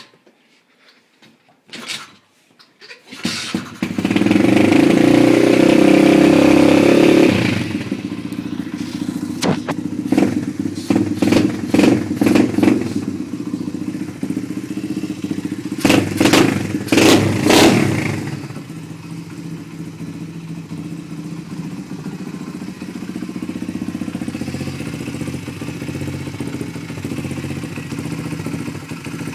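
A 125cc dirt bike's Lifan single-cylinder four-stroke engine catches about three seconds in after a few clicks and runs fast for a few seconds. It drops back and is blipped in quick revs several times, then settles into a steady idle for the last ten seconds or so.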